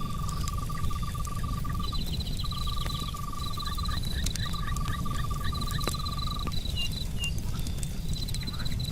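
Campfire crackling with sharp scattered pops over a steady low rumble, under a night chorus of crickets and frogs. The chorus is repeated pulsed trills in bouts of a second or two at a lower and a higher pitch, with a run of short chirps in the middle.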